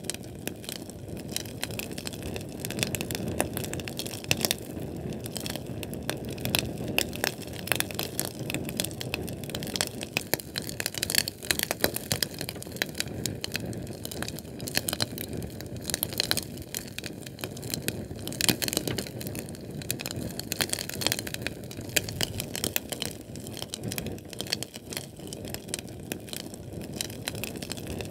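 Flame burning with a steady low rumble and dense, irregular crackling and popping throughout, from a Sterno canned-fuel flame.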